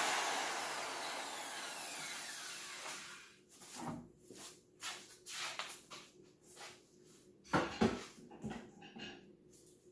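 Ridgid worm-drive circular saw spinning down after finishing a rip cut, its whine falling in pitch and fading over about three seconds. Then a string of short knocks and rustles as the saw and board are handled.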